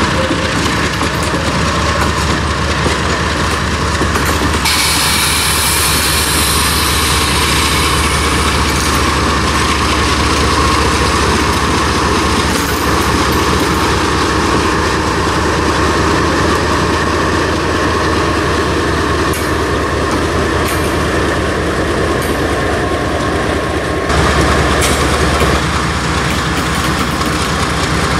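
Freight train's cars rolling past on the rails, a steady loud clatter of wheels. A high hiss or squeal joins in about five seconds in and fades by about eight seconds.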